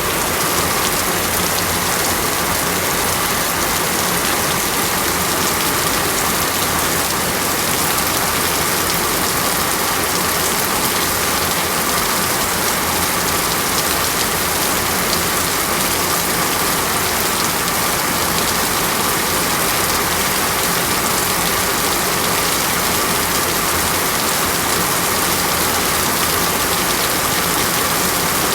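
Heavy rain falling steadily: a dense, even hiss of drops with no breaks or single loud hits.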